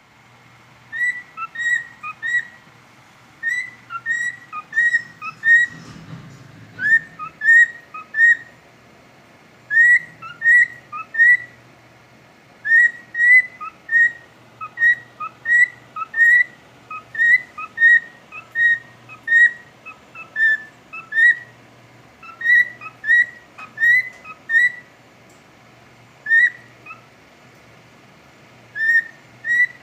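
Pet cockatiel whistling its song: a long series of short, clear whistled notes in quick runs, broken by brief pauses between phrases.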